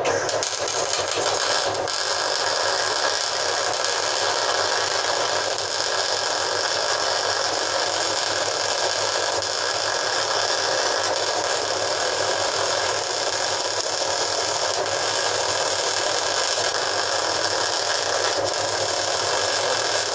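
A steady rushing noise with a faint hum in it, holding at an even level without breaks.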